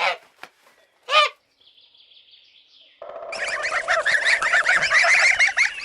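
Geese calling: a couple of single calls that drop in pitch, then, from about three seconds in, a flock calling over one another.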